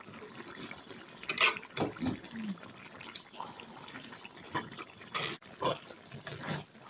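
Red chili sauce frying in oil in a pan, with a steady sizzle and bubbling as it cooks down, broken by a few sharp scraping strokes of a spatula stirring it, the loudest about a second and a half in and several more near the end.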